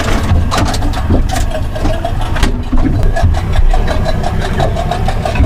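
Boat engine idling steadily, with a low rumble and an even pulse.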